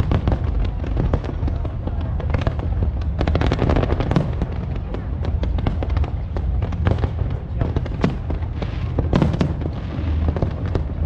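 Fireworks display: a dense run of sharp bangs and crackles, thickest about three to four seconds in and again about nine seconds in, over a continuous low rumble.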